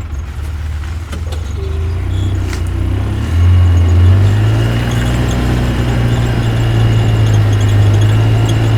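Backhoe loader's engine running, rising in pitch and loudness about three seconds in as it is revved up, then holding steady.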